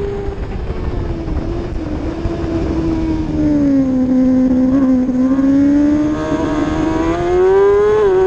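600 cc racing motorcycle engine at high revs, falling in pitch as the bike slows and then climbing steadily as it accelerates again. A quick dip in pitch near the end marks an upshift.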